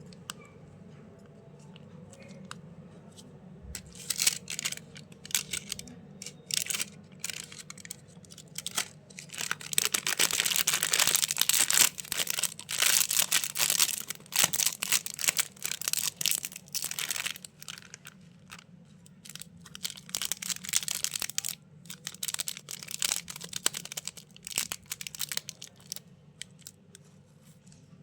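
Plastic lollipop and candy wrappers being crinkled and torn open by hand: a run of dense crackling rustles that starts about four seconds in, is thickest a third of the way through, and thins out near the end.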